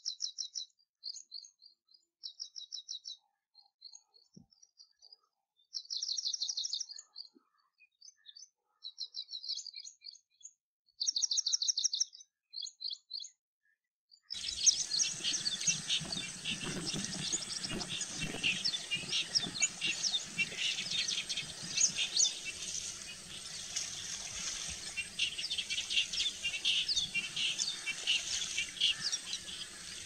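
Black drongo calling: short bursts of rapid, high-pitched repeated notes with silent gaps between. About fourteen seconds in this gives way to a dense chorus of chirping birds over a steady high-pitched tone.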